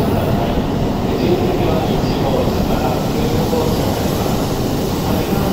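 Steady rumble of a Shinkansen train in the station, with faint voices under it.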